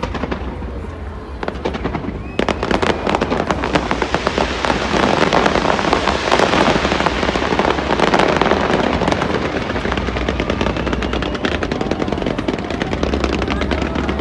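Fireworks display: a dense run of rapid crackling pops and bangs. It thickens suddenly about two seconds in and is busiest around the middle.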